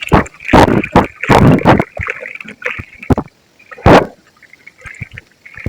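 Soft white ASMR crumbling concrete being crushed and broken up by hand, a run of loud crunches with crumbling between, the heaviest a little after the start, around a second and a half in, and near four seconds.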